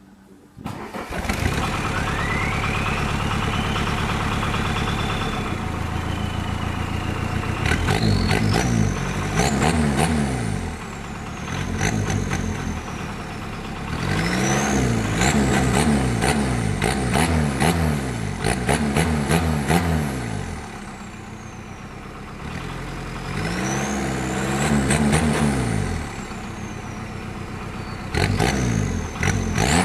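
A VW Mk1 Golf engine catches about a second in, settles to a steady idle, then is revved in four bursts. A high whine rises and falls with the revs.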